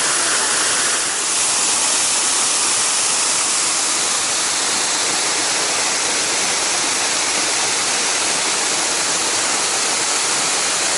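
Rushing river water, a loud, even hiss with no rhythm or pitch.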